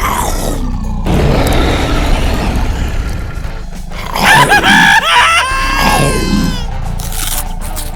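Upbeat background music with a loud cartoon-style scream about four seconds in, wavering and then sliding down in pitch.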